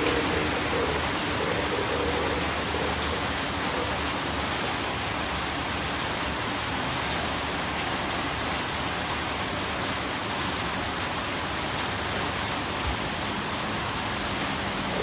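Steady rain falling, an even hiss with a low rumble that fades out over the first few seconds.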